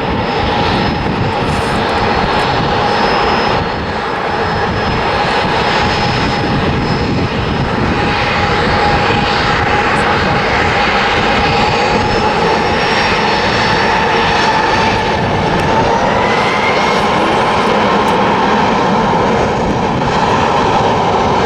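Alaska Airlines Boeing 737's jet engines at takeoff power: loud, steady jet noise with a whining tone that rises slightly about three quarters of the way through.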